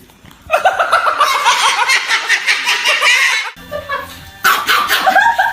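A bird calling loudly over and over in quick repeated calls. The calls break off abruptly about three and a half seconds in and start again nearly a second later.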